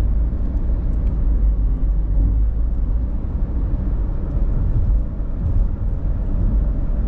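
Vehicle driving uphill: a steady, loud, low engine and road rumble.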